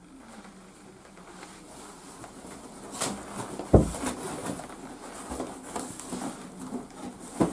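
Rustling and handling noises with scattered clicks and one loud thump a little under four seconds in.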